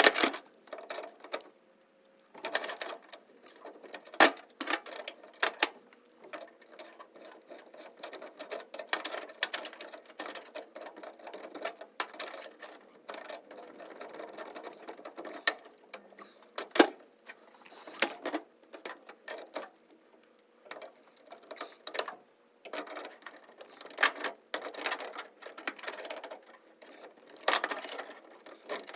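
Hand tools working on metal fasteners: rapid, irregular ratchet-like clicking and rattling, with a few sharp metallic knocks about 4 and 17 seconds in.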